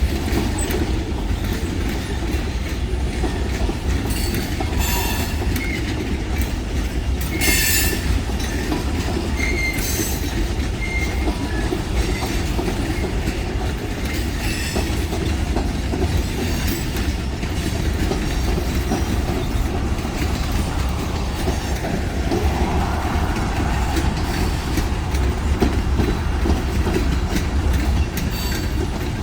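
Freight train cars rolling past on the rails in a steady low rumble, with brief high wheel squeals and clanks now and then in the first half.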